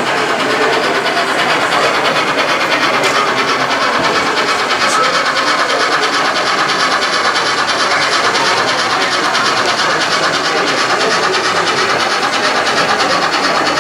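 Model train running on the layout track: a steady whirr from its small electric motor, with fast, even clicking of the wheels over the rail joints.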